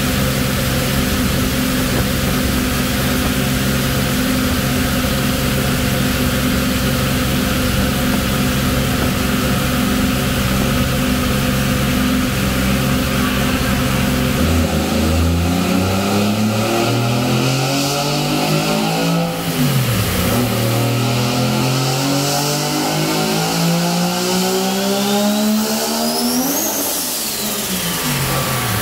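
Mazda RX-7's three-rotor rotary engine under load on a dyno: held at a steady speed for about half the time, then revved up in a long climbing pull with a brief dip partway through. A high whine climbs with it to a peak, and the revs drop sharply as the throttle is let off near the end.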